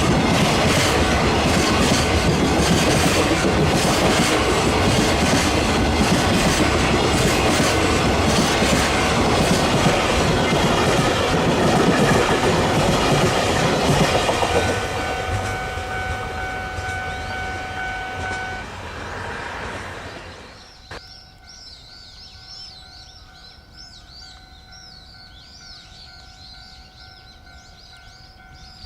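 Freight train hauled by an electric locomotive passing close by, its wagons clattering over the rail joints. It fades away about halfway through. As it fades, a steady high tone sounds, with light chirping behind it.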